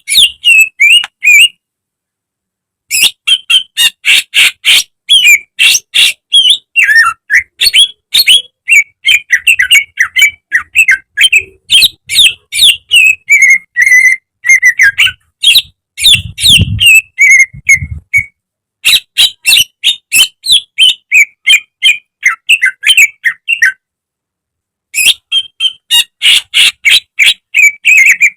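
Cucak ijo (green leafbird) singing a fast, loud run of sharp chirps and whistled notes, breaking off for about a second twice, once early and once near the end.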